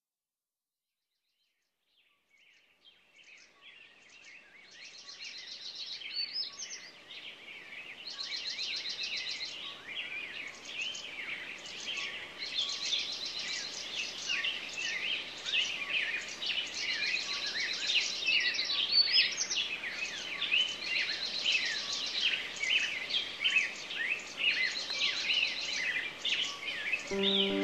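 A dense chorus of many birds singing and calling, with overlapping chirps and fast trills, fading in over the first few seconds and then continuing steadily.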